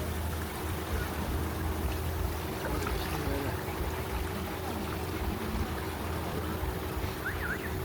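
Tour boat's engine running steadily, a constant low hum with a steady higher drone over the rush of water.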